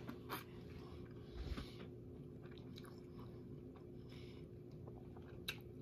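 Faint chewing of a mouthful of Subway turkey sub on stale Italian herbs and cheese bread, with a few soft mouth clicks.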